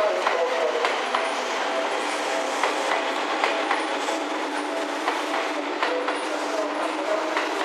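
Seibu 10000 series New Red Arrow limited-express train running past the platform: a steady rumble with a wavering hum and irregular clicks of the wheels over the rail joints.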